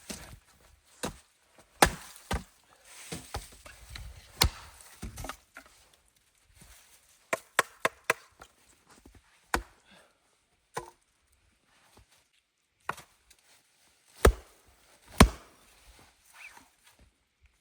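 Wood being chopped: irregular sharp knocks and cracks, the loudest two about a second apart near the end.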